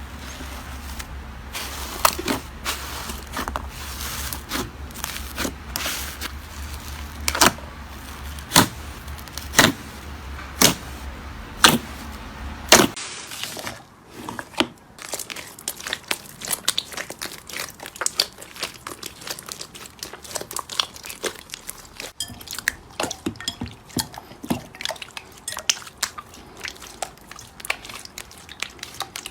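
Slime being squeezed and pressed by hand, giving sharp popping clicks about once a second over a low hum. About halfway through the clicks give way to a denser, quieter run of rapid crackling pops.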